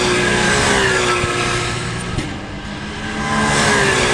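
Race cars passing at speed on a circuit, one near the start and another near the end, each engine note dropping in pitch as the car goes by.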